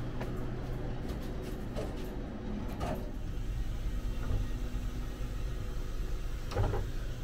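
Steady low hum inside a sleeper train carriage standing at the platform, with a few soft thumps and knocks; the loudest comes near the end.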